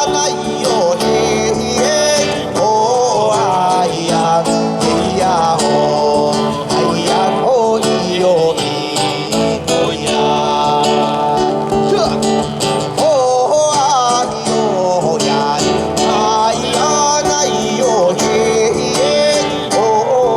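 A live band playing an upbeat folk song, led by acoustic guitar, with a melody line that bends and slides in pitch over a steady accompaniment.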